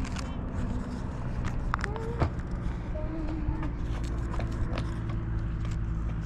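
Sheet of paper rustling and creasing in the hands, with scattered short crinkles and taps as a folded flap is tucked into a paper pocket, over a steady low hum.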